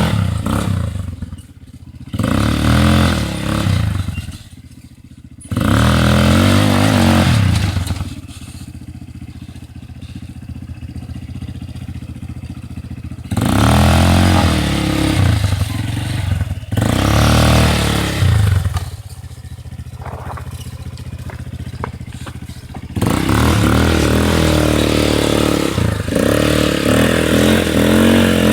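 ATV engine running on a dirt trail, revving up and easing off again and again, with a few quieter stretches of lower-revving running between the bursts of throttle.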